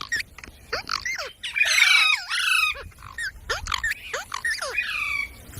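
Parrot squawking and chattering: a quick string of short calls that sweep up and down in pitch, loudest in a dense burst about two seconds in.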